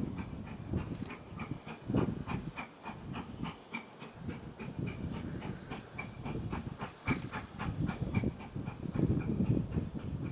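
Steam locomotive running, with a quick, even beat of about four sharp ticks a second over a low rumble.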